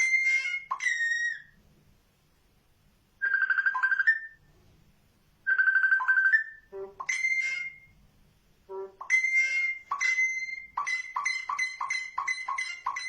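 Pet bird whistling an imitation of a mobile phone ringtone: short phrases of clear pitched notes with pauses between them, then near the end a quick run of short repeated notes, about three a second.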